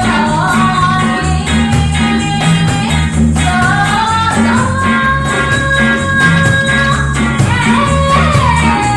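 Live reggae band playing a song: a sung melody over a bass line and steady percussion, with one long held note in the middle.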